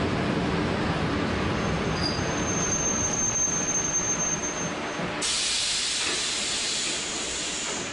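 Shin-Keisei 200 series electric train braking to a stop, heard inside the cab: the running noise fades under a thin, steady, high brake squeal, then about five seconds in a sudden hiss of compressed air sets in and runs for nearly three seconds.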